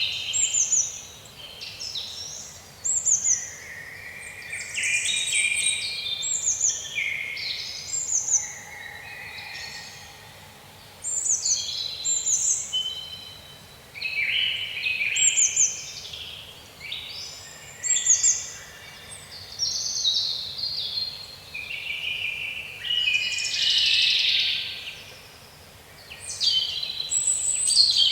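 Small songbirds chirping and singing: quick runs of short, high, falling notes that come in bouts with brief pauses between them.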